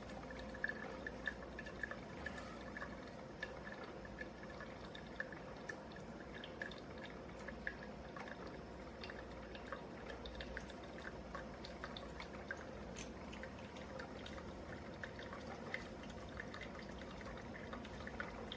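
Black+Decker CM618C single-serve coffee maker mid-brew, hot water dripping through the grounds into the cup, with many faint irregular ticks over a steady low background.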